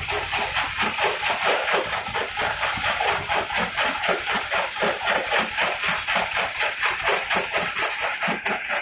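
Brick-breaking machine running with a rapid, regular knocking of about five beats a second.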